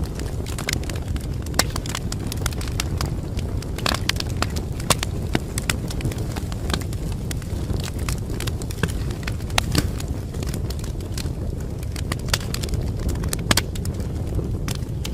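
Wood fire crackling, with many irregular sharp pops and snaps over a steady low rumble of flames.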